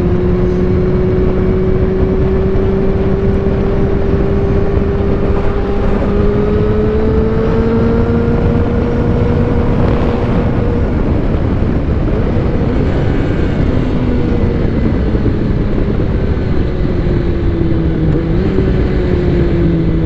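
Motorcycle engine running at speed, its pitch rising slowly for about ten seconds and then easing back down, under heavy wind rush on a helmet-mounted microphone, despite acoustic foam sealing the helmet's ventilated chin gap.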